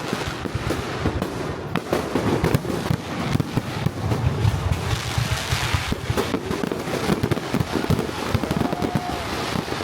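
Aerial fireworks display going off in a dense run of bangs and crackles, one after another with no break, the crackling thickest about five seconds in.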